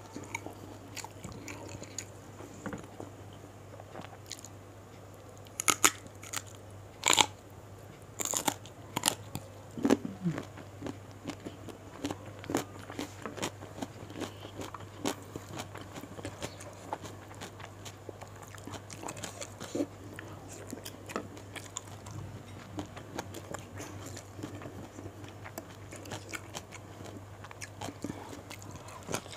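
Close-miked chewing and crunching of raw vegetables and fried gourami, with a series of loud crunches about six to ten seconds in, then softer chewing clicks, over a steady low hum.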